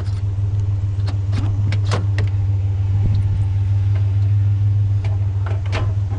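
Pickup truck engine idling steadily, with scattered sharp clicks and knocks over it.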